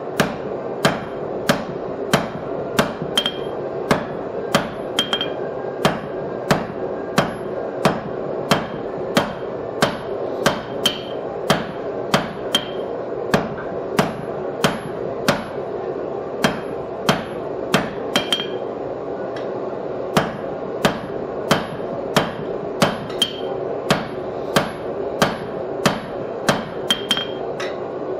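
Forging hammer striking hot steel on an anvil in a steady rhythm of about two blows a second, some blows leaving a brief high ring, while the stock is worked down into a bottom fuller. A steady hum runs underneath.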